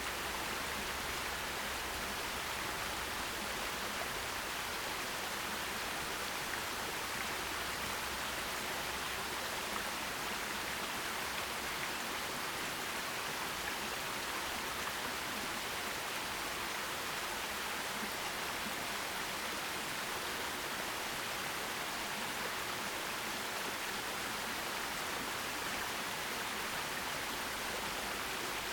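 Forest stream water running over rocks: a steady, even rushing hiss with no change.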